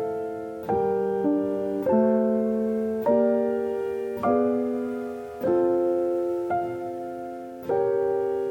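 Soft background piano music: slow chords struck about once a second and left to ring and fade.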